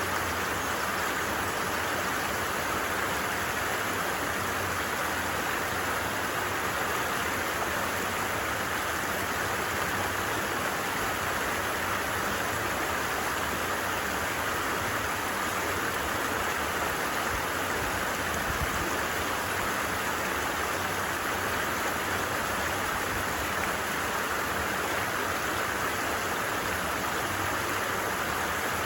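Stream water running over rocks, a steady unbroken rush that stays even throughout.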